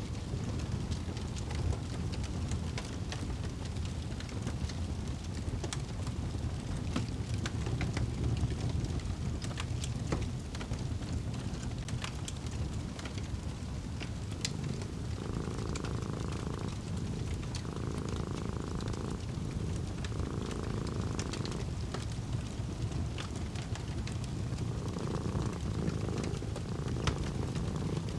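A fireplace fire burning, with a steady low rumble and frequent small crackles and pops. A cat purring in phrases about a breath long can be heard on top, mostly in the second half.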